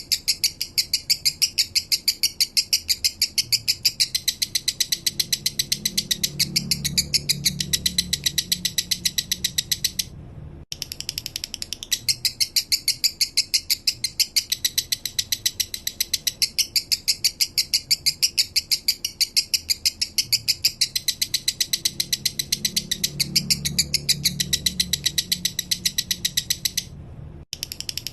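Male lovebird singing a long, continuous chattering song of rapid, evenly spaced high notes, broken by brief pauses about ten seconds in and near the end.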